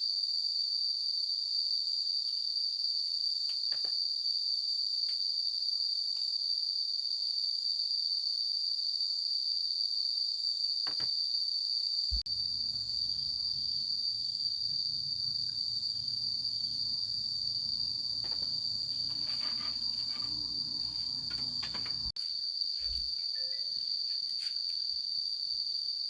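Insects shrilling in one steady, high-pitched chorus. A few faint knocks and a low rumble of about ten seconds in the middle run underneath.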